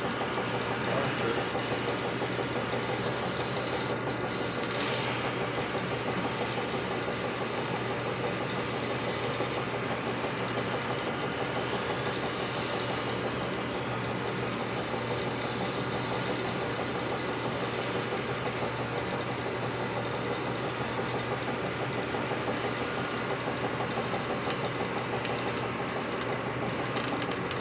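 Honing machine running steadily, its abrasive stone working inside a metal bore.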